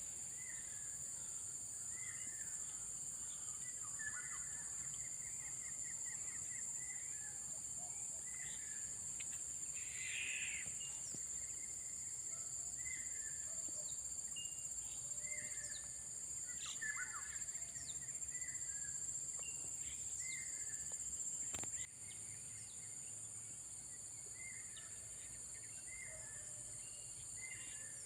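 Birds chirping and calling in short repeated phrases over a steady, high-pitched insect drone. About three-quarters of the way through there is a click, and the drone drops suddenly to a lower level.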